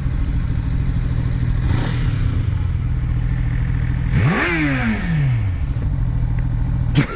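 Motorcycle engine idling steadily, with one quick rev about four seconds in that climbs sharply and falls back over a second or so.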